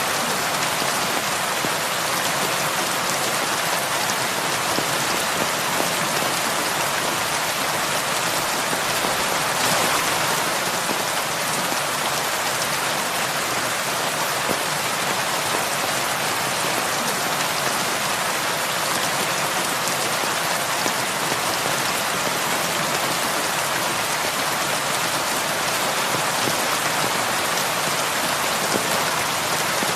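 Heavy rain falling steadily on a roof, an even hiss without pause.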